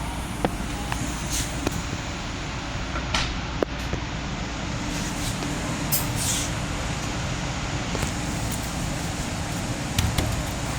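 Interior running noise of a Long Island Rail Road M9 electric railcar, heard inside its restroom: a steady rumble and hum, with scattered clicks and rattles and a few brief hisses.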